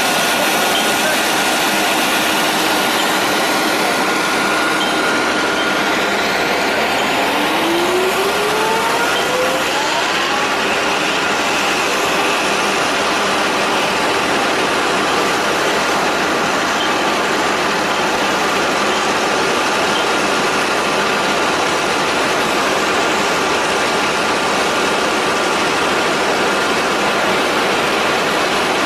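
A dust-suppression sprayer runs with a steady, loud rushing noise, mixed with a truck's engine. A rising whine comes about a quarter of the way through.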